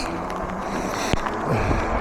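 Fat-tyre e-bike being ridden in the rain: a steady rush of wind and wet tyres, with a single click about a second in and a steady hum setting in near the end.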